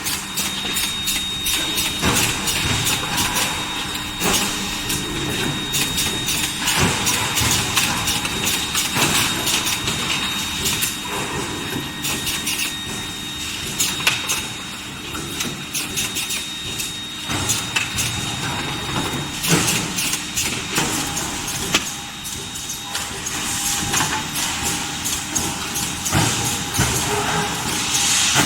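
Induction-heated bar hot rolling line running: continuous industrial machine noise with frequent irregular clanks and knocks over a steady high-pitched tone and a low hum.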